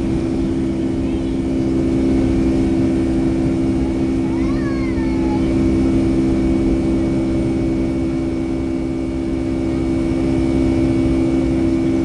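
Boeing 757-200's turbofan engines heard from inside the cabin near the wing: a loud, steady drone with a steady low hum, as the airliner takes off and climbs.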